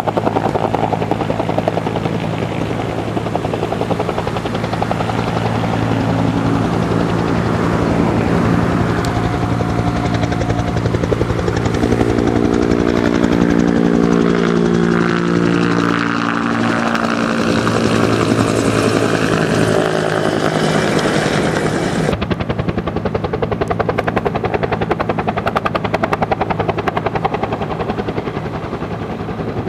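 Firefighting helicopter's rotor and turbine running loud and close, the rotor pulsing rapidly. About halfway through, its whine slides down in pitch as it passes by.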